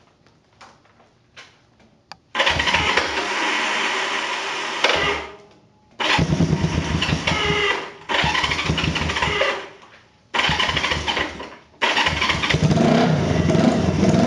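A few light clicks, then the 1973 Honda CB350's parallel-twin engine is cranked on the electric starter in four short tries of one to three seconds each. This is its first start after sitting for two years. About two seconds before the end it catches and keeps running.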